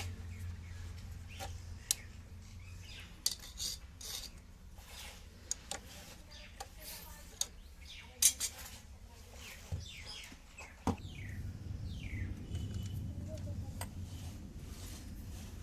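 Scattered light metallic clicks and clinks from hand work on a sewing machine's parts, with a few short chirps; a low steady hum sets in about two-thirds of the way through.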